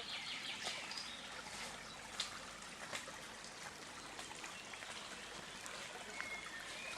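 Faint trickling water from a small stream, with a few scattered drips.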